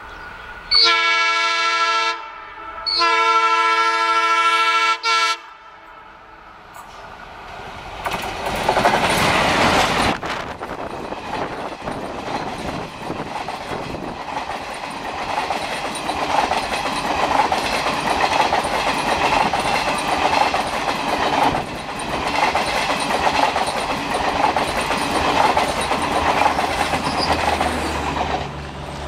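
ALCO diesel locomotive sounding its multi-tone horn in two long blasts, then the train passing close by. The passing train is a loud, sustained rush of engine and wheel noise with the clickety-clack of the coaches, dropping off shortly before the end.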